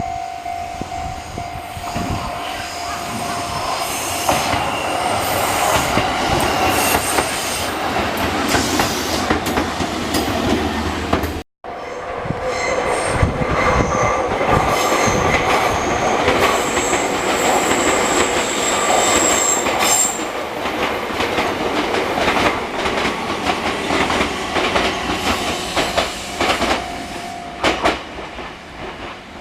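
A train passing close by, wheels clattering over the rail joints with high-pitched wheel squeal. The sound cuts out completely for a moment a little before halfway.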